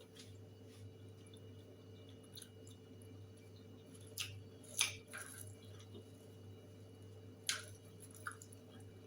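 A person eating and chewing, with a few short, sharp, moist clicks from the mouth, the loudest about five seconds in and again near the end.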